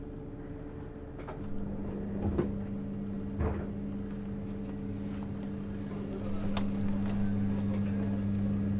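Cabin running sound of a JR 651 series electric train. A steady low hum comes in about a second and a half in, and a deeper hum joins about six seconds in, over scattered knocks, with the overall level slowly rising.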